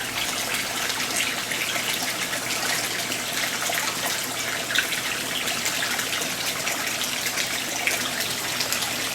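Water running and splashing steadily, with a faint steady low hum underneath.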